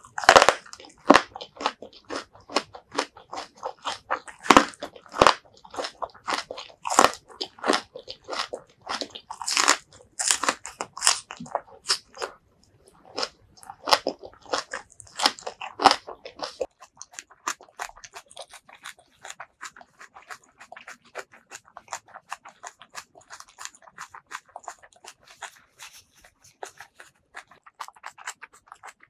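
Close-miked crunchy biting and chewing of a stir-fried vegetable coated in chili and garlic, with loud crisp crunches. A little past halfway the crunches stop and give way to softer, quieter chewing and mouth sounds.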